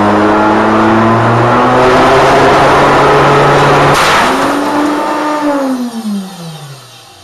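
Router motor spinning a plastic record at high speed with a steady whine creeping up in pitch, then a single sharp crack about four seconds in as the record bursts apart. The motor then winds down, its pitch falling away near the end.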